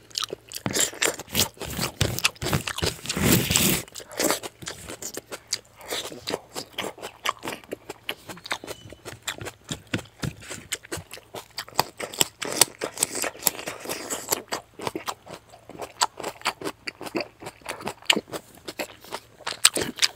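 Close-miked eating by hand: chewing and crunching of rice and raw salad, with fingers scraping scraps of rice off a banana leaf. A louder stretch comes about two to four seconds in.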